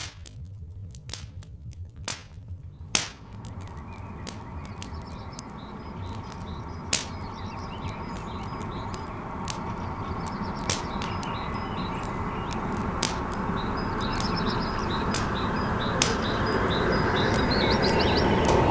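Wood fire crackling with scattered sharp pops while small birds chirp, under a steam locomotive's rumble that grows steadily louder as the train approaches.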